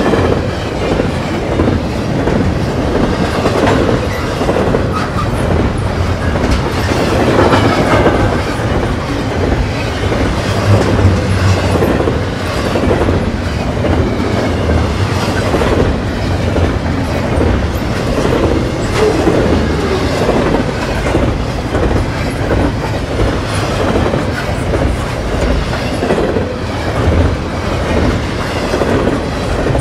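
Double-stack intermodal container train rolling past close by: a loud, steady rumble of steel wheels on the rails with a running clickety-clack of the wheels.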